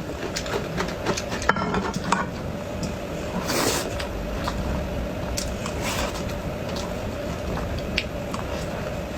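Eating sounds: cutlery clicking against a dish, with a steady low hum underneath.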